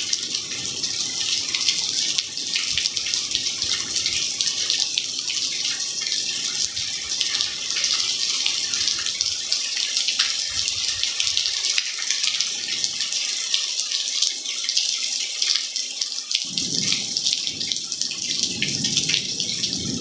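Rain falling onto a cement-plastered surface: a dense, steady patter of many separate drops.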